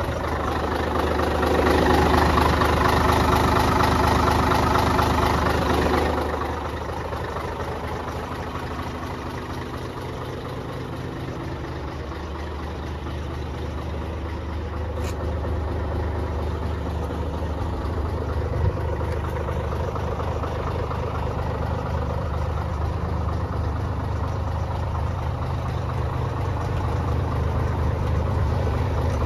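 Scania 113 truck's straight-six diesel engine running, louder for the first few seconds and then dropping back sharply to a steady idle about six seconds in.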